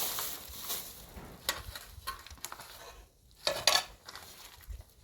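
Light clatter and scraping of small hard objects, with a few short clicks about a second and a half in and a louder cluster a little past three seconds.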